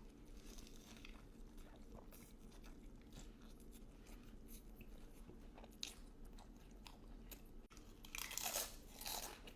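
Close-miked eating: soft chewing with small crunchy clicks, then louder crunching bites about eight seconds in.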